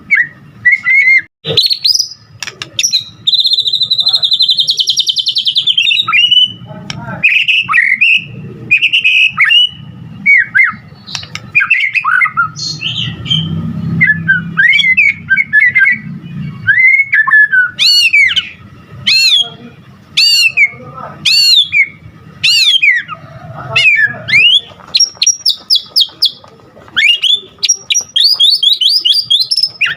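A white-rumped shama singing loudly and without pause: a constantly changing run of whistles, pitch glides and rapid trills. In the middle comes a series of repeated downward-sweeping notes, and near the end a fast trill. Its song is packed with mimicked phrases of other birds.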